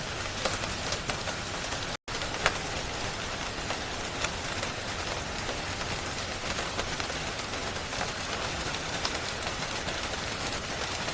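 Steady rain hiss with scattered sharp pops and crackles of a wood fire. The sound cuts out completely for an instant about two seconds in.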